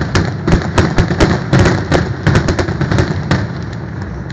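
Rapid string of sharp firework bangs, about five a second, ending after about three seconds, over a steady low rumble.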